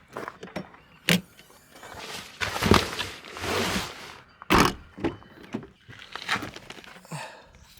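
Sounds of handling at a car: a sharp click, a rustling scrape lasting a second or two, then a loud thump about four and a half seconds in from a car door or boot being shut, with a few smaller clicks and knocks after.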